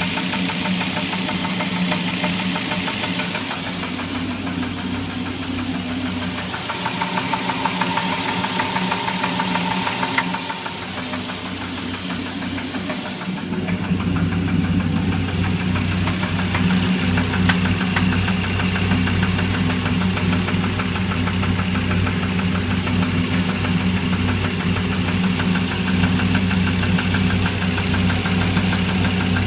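Dodge SRT-10's 8.3-litre V10 running with a rhythmic engine knock. About halfway through, the sound turns deeper and fuller.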